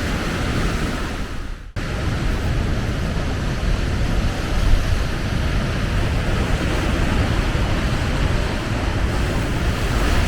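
Strong mountain wind buffeting the microphone: a loud, steady rush of noise, broken off for an instant about two seconds in.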